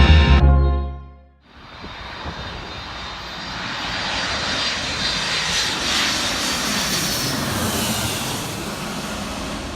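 Music ending about a second in, followed by a steady rushing noise that builds, peaks midway and slowly fades.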